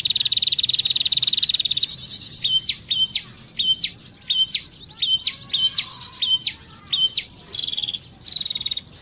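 Bird song played from an mp3 as a lure for trapping birds: a long, even buzzing trill, then a run of short, sharp upward-flicking notes about two a second, with trilled notes returning near the end.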